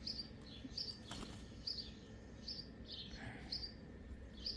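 Small birds giving short, high chirps, repeated about once a second, with a faint click about a second in.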